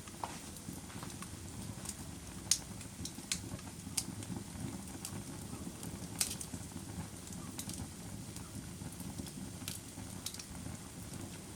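Wood fire burning in a fireplace: a steady low rumble of flames with scattered sharp crackles and pops, the clearest about two and a half, six and nine and a half seconds in.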